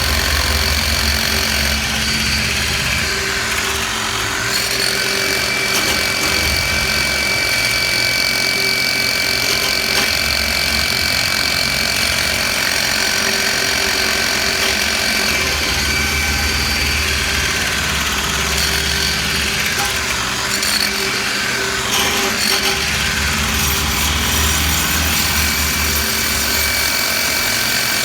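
Hammer drill boring an anchor hole with a long bit, running steadily with a high whine, its low rumble rising and easing as the drill works in stretches.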